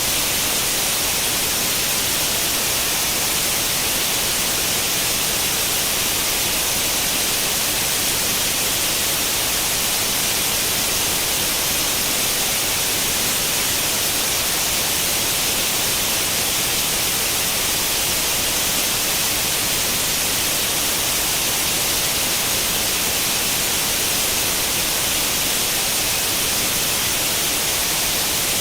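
Steady white noise like the static hiss of an old tube television tuned to no channel, even and unchanging, with most of its weight in a bright upper hiss.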